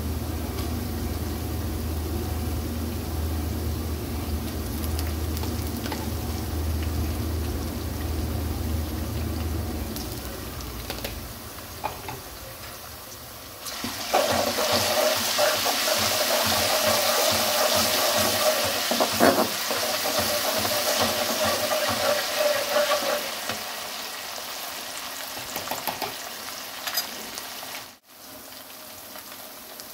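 Sliced onions frying in oil in an aluminium wok, with a low hum at first. About halfway through, a loud sizzle starts as a spoonful of paste in the hot oil is stirred with a metal spoon scraping the pan, then eases off.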